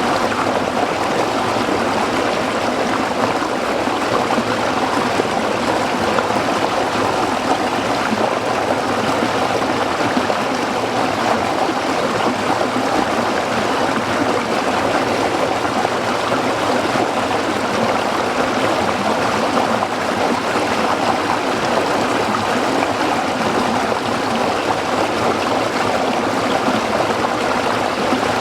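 Small stream flowing over rocks, a steady even babble and trickle of water.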